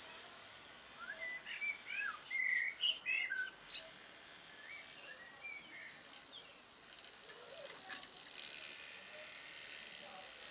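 Garden birds chirping and twittering, busiest from about one to four seconds in, with a few sharp clicks around three seconds in.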